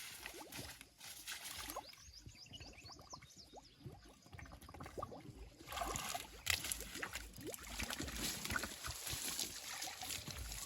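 Water being poured and splashed while washing a tractor, an uneven trickling and splattering that gets busier and louder about six seconds in.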